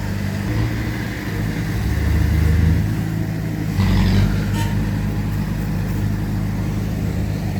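Heavy diesel engines of earthmoving machinery running steadily, swelling twice under load, about two seconds in and again near four seconds, with a short burst of noise at the second swell.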